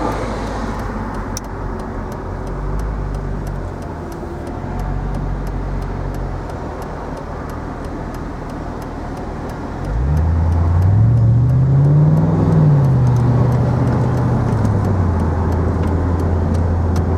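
A 2003 Mercedes SL55 AMG's supercharged V8 running with road noise on the move. About ten seconds in it gets louder as the car accelerates, its note rising for a couple of seconds, then dropping back and settling into a steady drone.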